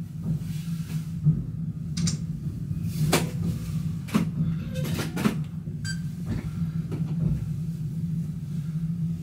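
Inside an electric train's driving cab rolling slowly through a rail yard: a steady low hum with irregular sharp knocks and clatters, mostly in the first six seconds, as the wheels run over switches and rail joints.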